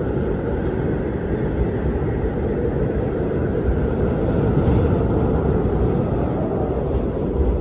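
Howling wind: a steady low rushing with a fainter higher whistle above it, swelling slightly about halfway through.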